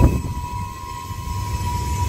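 Freight train cars rolling past on a curve: a steady low rumble of wheels on rail with a thin, steady high squeal of wheels against the curved rail, and a sharp thump right at the start.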